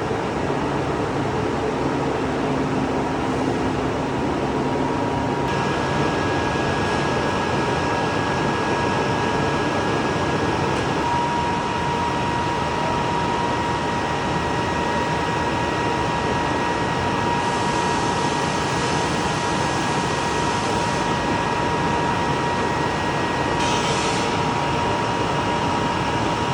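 CNC glass-cutting machine running steadily, a constant mechanical noise with a high, even whine; the tone of the whine shifts about five seconds in.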